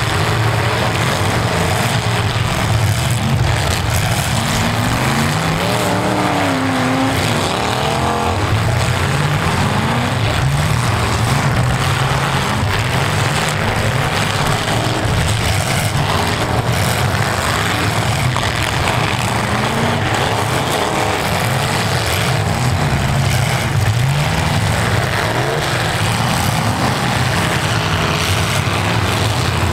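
Several full-size V8 demolition derby cars' engines running and revving together, pitch rising and falling as they push against each other.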